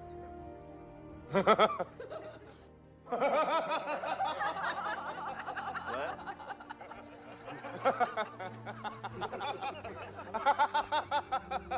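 Music playing, with someone snickering and chuckling in short, repeated bursts over it.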